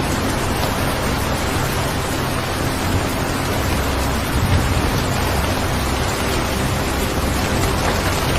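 Steady rain sound with a low rumble underneath, swelling slightly about four and a half seconds in, mixed with a faint steady 528 Hz tone.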